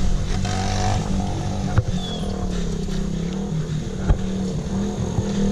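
Mini bike's small engine running at a fairly steady speed, with two short sharp knocks, about two seconds and four seconds in.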